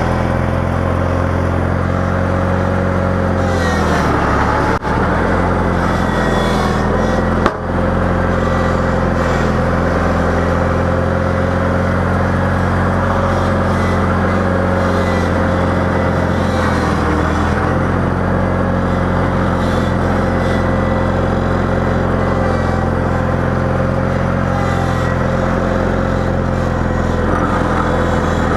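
Garden tractor's engine running steadily while plowing snow, with a steady whine over it. There is a brief dip in the sound about five seconds in and a sharp click about two and a half seconds later.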